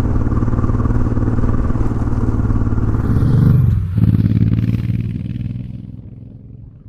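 Motorcycle engine running steadily, rising briefly about three seconds in, then dying away over the last couple of seconds.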